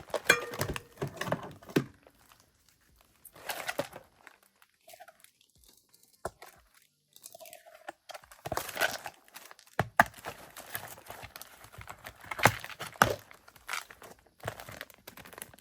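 Plastic packaging being handled and crinkled in irregular bursts, with a few sharper crackles and brief quiet pauses.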